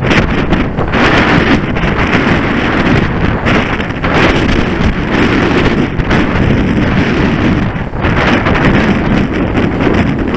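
Strong wind buffeting the microphone, a loud, gusting rumble and rush.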